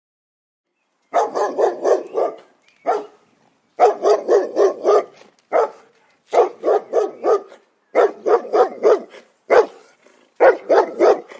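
A dog barking in quick runs of several barks, about five a second, with single barks between the runs; the barking starts about a second in.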